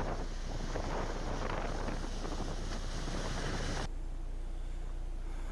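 Wind blowing across a camera's microphone, a steady rushing noise that cuts off abruptly about four seconds in, leaving a quieter low hum.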